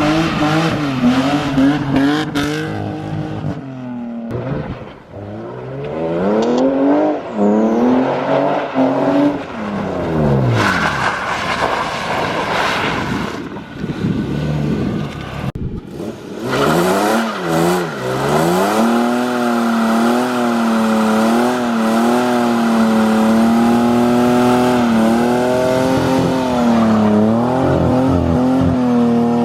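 BMW E36 drift car's engine being revved hard through a drift, the pitch climbing and falling sharply over and over with the throttle; in the second half it is held high and fairly steady with small wavers, as in a long continuous slide.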